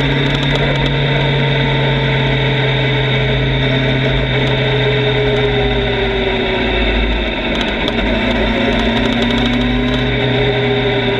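Motorcycle engine running at a fairly steady speed, its pitch drifting slowly down and back up, with a heavy low rumble.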